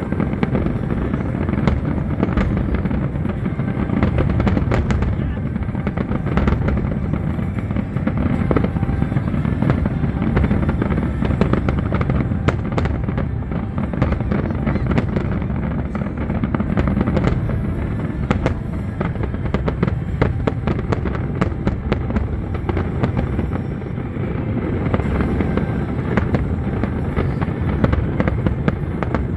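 Fireworks display: a continuous barrage of shells bursting, with dense crackling and booming, over the show's music.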